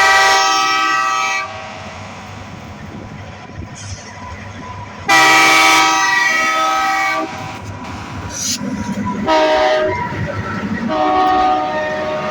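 Diesel locomotive air horn sounding the grade-crossing signal: two long blasts, a short one, and a long one, over the low rumble of the moving train.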